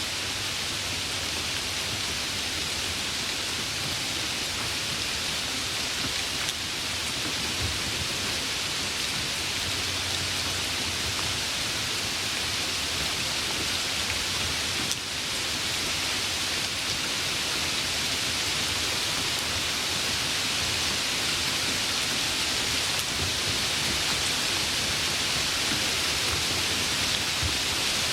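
Heavy rain falling steadily, a dense even hiss, with a soft low rumble underneath about eight to eleven seconds in.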